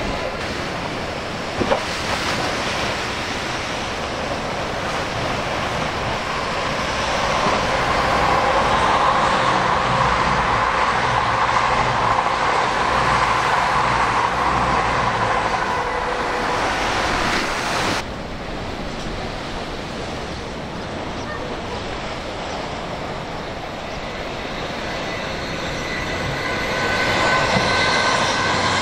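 A train passing on the line, its rumble building to a peak around the middle and then dropping suddenly about two-thirds of the way through. A lower steady rumble follows, and near the end the noise rises again with a whine.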